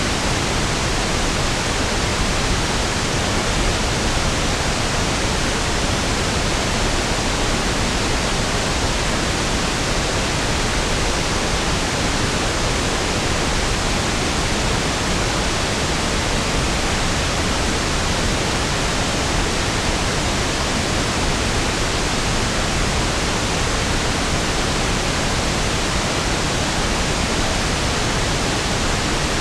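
Steady pink noise (1/f noise): an even, unbroken hiss with equal energy per octave, fuller and softer in the lows than white noise.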